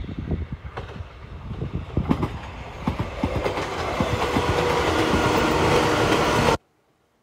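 Sangi Railway 801-series electric train, a former Seibu 701 series, approaching and passing close by, its wheels clacking over the rail joints and growing louder as it nears. The sound cuts off suddenly about six and a half seconds in.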